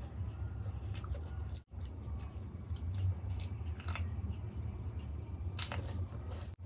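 Close-miked eating of dahi golgappa: a crisp, hollow puri shell filled with curd is bitten whole and chewed, giving wet mouth sounds and a few sharp crunches and clicks, the loudest near the end. A steady low hum runs underneath.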